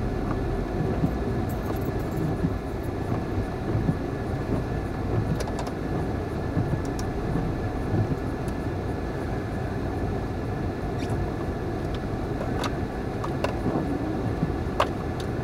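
Honda CR-V on snow tyres driving through snow, heard from inside the cabin: a steady low rumble of engine and tyres with a few scattered light clicks.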